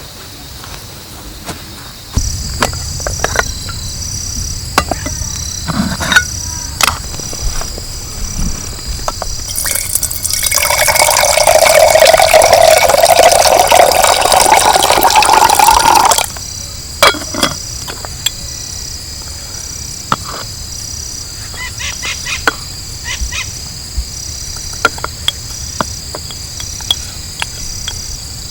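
Crickets chirping steadily, with scattered small clicks and knocks. In the middle, liquid is poured into a container for about six seconds, the pitch rising slightly as it fills.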